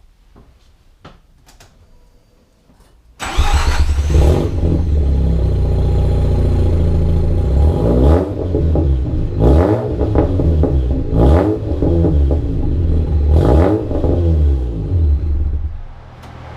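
Mazda RX-8's Renesis two-rotor rotary engine starting about three seconds in with a quick rising flare, then idling with four short throttle blips. The level drops shortly before the end.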